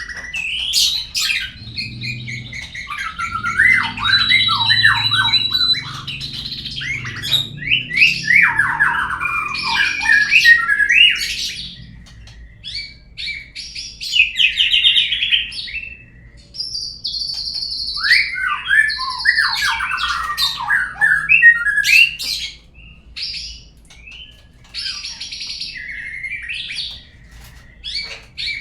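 Murai songbird song, a lure call meant to set other murai singing: varied whistled phrases full of quick downward-sweeping notes, with a held high whistle a few seconds in. The phrases are broken by short pauses.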